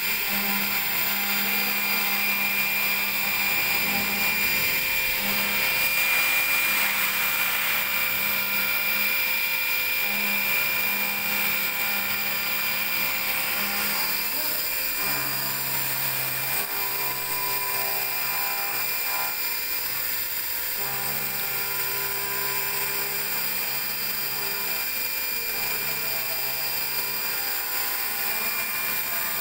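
CNC vertical machining center running a machining program: a steady high whine and hiss, with lower hums that start and stop every second or few.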